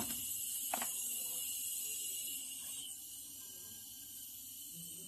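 Refrigerant gas hissing out of an opened refrigerator pipe as the just-cleared line vents, dying down about three seconds in, with two sharp clicks near the start.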